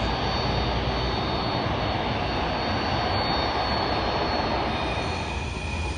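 Turbofan engines of a taxiing Lockheed C-5 Galaxy: a steady jet roar with a thin high whine over it, easing a little near the end.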